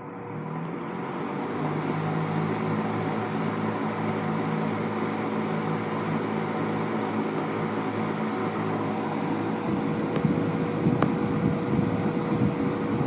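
1960s Air King PR20P 20-inch box fan with aluminum paddle blades running on high. The air rush builds over the first couple of seconds as it comes up to speed, then holds steady over a constant motor hum.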